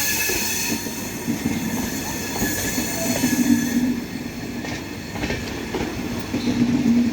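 Chozhan Superfast Express passenger train running on the rails, with steady wheel and rail noise. A high hiss drops away about four seconds in.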